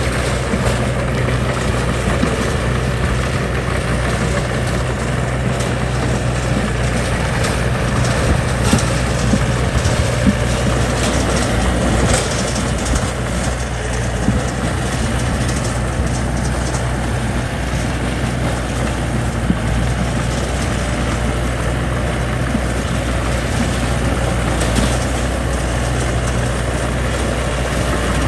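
Heavy construction machine's engine running steadily at a constant pitch, with a few brief knocks now and then.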